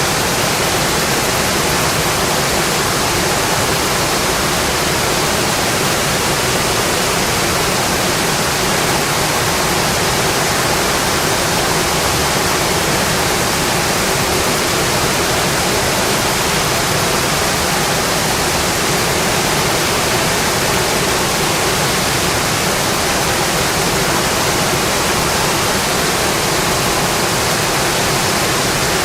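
Steady rain, heard as a dense, even hiss.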